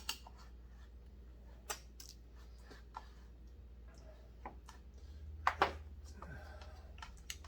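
Scattered clicks and light knocks of a chainsaw's muffler, bolts and hand tools being handled and set down on a workbench, with the loudest pair of knocks a little past the middle.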